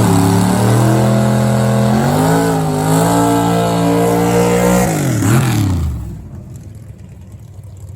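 Drag racing car at full throttle down the strip, its engine note climbing with a brief dip partway through. Near the end of the run the pitch drops sharply and the sound fades away.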